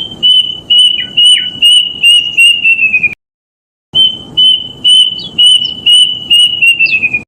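Kedasih cuckoo (Cacomantis) song: two runs of about eight clear whistled notes each, repeated a little under three times a second. Each run holds one pitch and then sags slightly lower over its last notes, with a short break between the runs.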